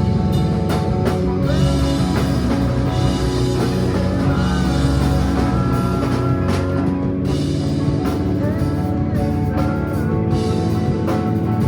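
Live rock band playing: a guitar line with notes that bend and glide in pitch over a steady bed of bass and drums.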